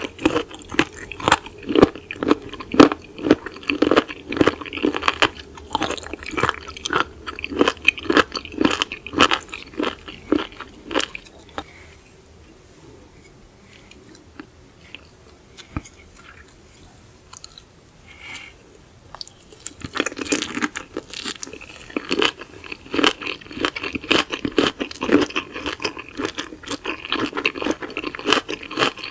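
Close-miked chewing and crunching of raw seafood, a quick run of wet crunches. It stops for several seconds in the middle, leaving only a few faint clicks, then the chewing starts again.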